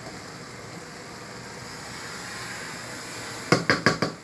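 A steady hiss of the pot of fried rice cooking on the stove, then near the end a quick run of about five sharp knocks of a utensil against the pot.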